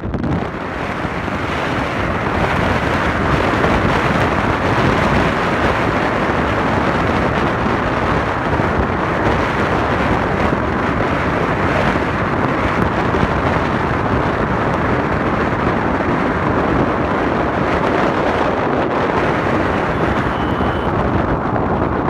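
Wind rushing over the microphone of a moving car in a snowstorm, mixed with road and tyre noise. It builds over the first few seconds and then holds steady and loud.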